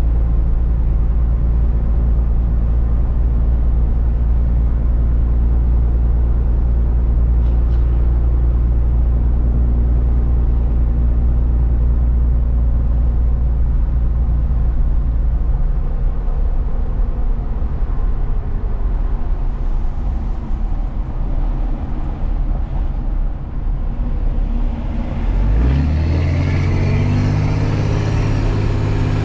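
Truck engine and road noise while driving: a steady engine hum that eases off about halfway through, then the engine pulls harder and rises in pitch near the end as the truck accelerates.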